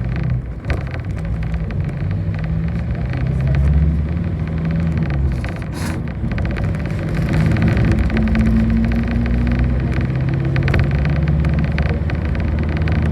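City bus engine heard from inside the moving bus, its pitch dropping and then climbing again as it changes speed, with frequent small rattles and a short hiss about six seconds in.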